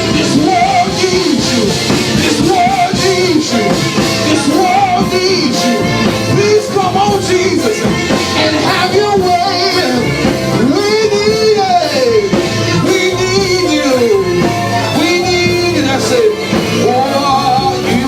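Gospel worship song: singing over full instrumental accompaniment, continuous and loud.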